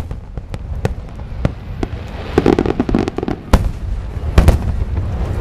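Aerial fireworks display: shells bursting in sharp, irregular bangs, a few each second, over a continuous low rumble.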